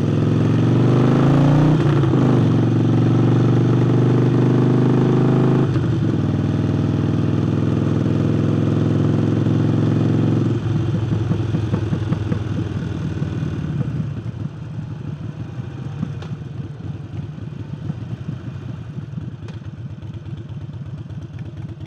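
Harley-Davidson Sportster Forty-Eight's air-cooled V-twin, fitted with a new air intake, accelerating with rising revs and two gear changes in the first six seconds, then holding steady. About halfway through the throttle closes and the engine drops to a slower, lumpy pulsing beat that grows quieter.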